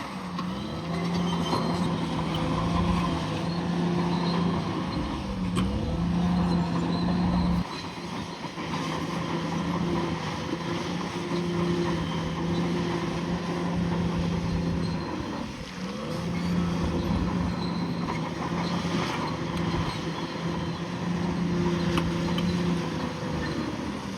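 Bulldozer's diesel engine running steadily under load, its note dipping briefly and recovering every few seconds.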